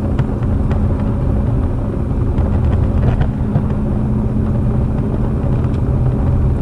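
2016 Ford Mustang GT's 5.0 V8 running steadily at cruising speed, with road noise inside the cabin. The engine keeps running though the start/stop button is pressed while in gear.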